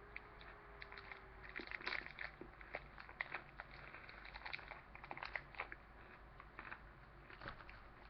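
Faint, irregular crunching and clicking of someone chewing a Reese's Crispy Crunchy candy bar, which is chocolate and peanut butter with crispy pieces and peanuts.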